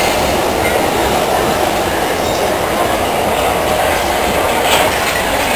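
South West Trains suburban electric train passing close along the platform. Steady rolling rumble of steel wheels on rail, with a few sharp clatters near the end as wheels run over rail joints.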